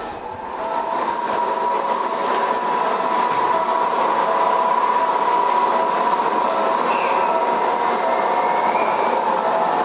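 Renewed Keisei 3500 series electric commuter train running, growing louder over the first couple of seconds and then holding steady, with a steady high whine over the running noise.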